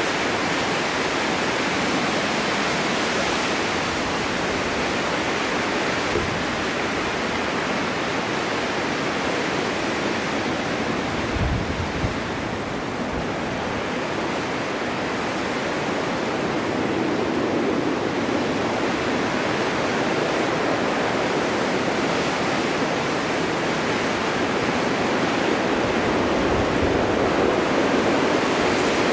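Snowstorm wind blowing steadily, swelling and easing slowly, with a brief low thump about eleven seconds in.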